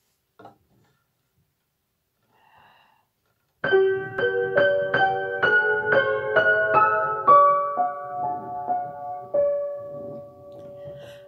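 Piano introduction: a few seconds in, a run of single notes struck about two to three a second begins, slowing into longer held notes that fade away near the end. A short click comes just before the playing.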